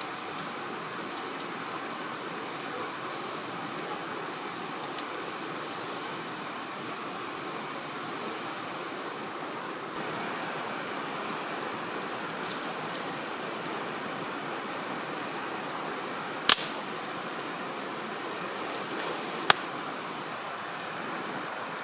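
Wood campfire crackling, with scattered small ticks and two sharp, loud pops about three seconds apart, over a steady rushing hiss.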